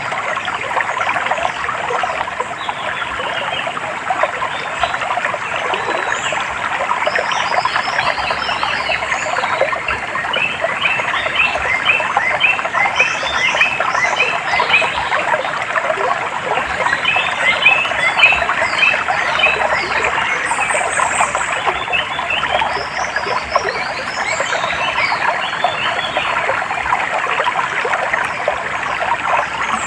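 Running stream with a dense chorus of small animal calls over it: rapid, repeated high chirps that thicken in the middle and thin out near the end.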